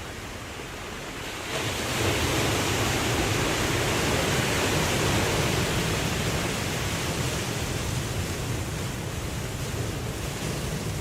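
Ocean surf: a wave breaks about a second and a half in, swelling to a loud rushing wash that slowly draws back over the following seconds.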